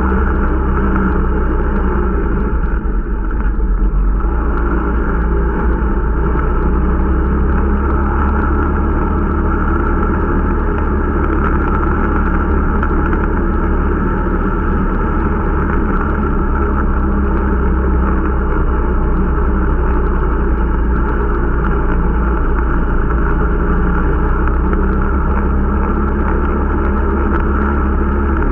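Irbis Dingo T125 snowmobile's small single-cylinder engine running steadily under way, the new engine being run in.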